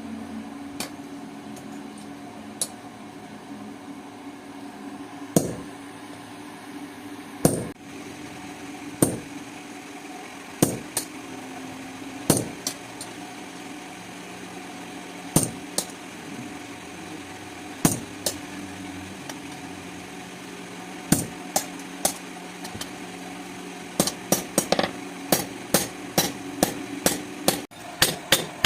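Hand hammer blows on steel being forged into a cleaver: single strikes a second or more apart, then a quicker run of about two blows a second near the end, over a steady hum.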